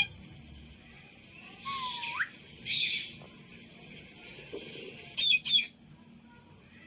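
Pet parrot calling: a rising whistle about two seconds in, a short harsh squawk just after it, and two quick shrill calls a little past five seconds.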